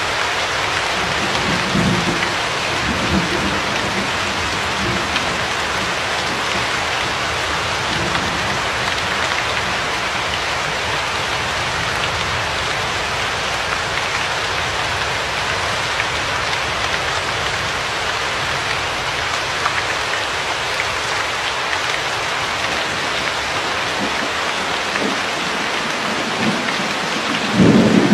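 Steady rain hissing, with low rumbles of thunder in the first few seconds and a louder thunder rumble near the end.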